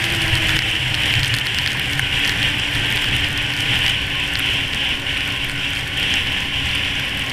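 1998 Yamaha SRX700 snowmobile's three-cylinder two-stroke engine running steadily while riding, under a loud, even rush of wind and blowing snow.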